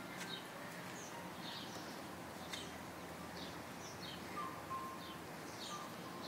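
Small birds chirping, short high calls repeating every half second to a second over a faint steady hiss.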